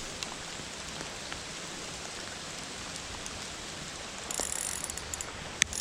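Steady patter of rain with flowing creek water. About four seconds in comes a short run of high-pitched mechanical clicking, then a single sharp click near the end.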